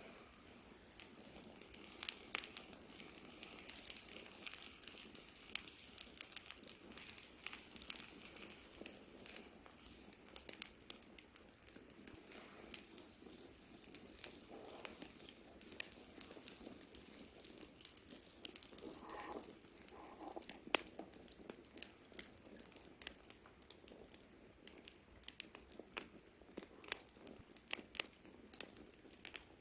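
Wood campfire crackling: frequent irregular sharp pops and snaps over a steady hiss.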